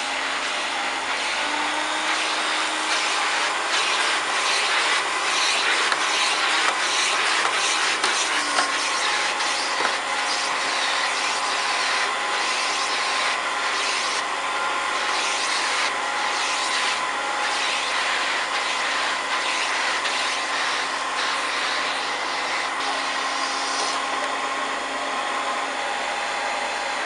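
1993 Hoover Turbopower 2 U2464 upright vacuum cleaner running steadily, its hose sucking up cornflakes, with a scratchy rattle of flakes over the motor's even whine.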